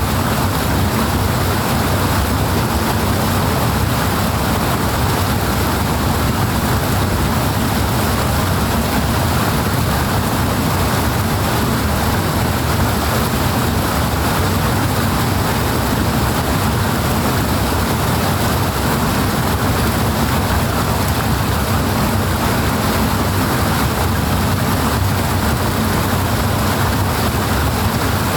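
Rushing water: a loud, steady, unbroken rush with no changes.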